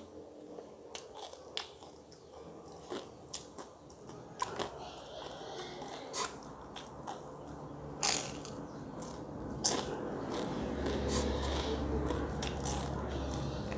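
Close-miked crunching and chewing of a crisp fried flatbread: a run of sharp crackling snaps over steady mouth noise, with the loudest snaps about eight and ten seconds in. A low hum comes in for the last few seconds.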